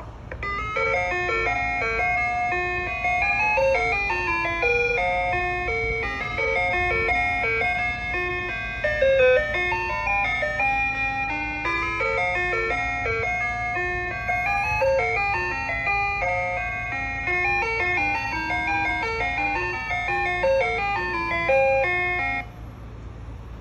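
Ice cream truck's electronic chime jingle playing a bright note-by-note melody through its loudspeaker, stopping about 22 seconds in, over a steady low hum.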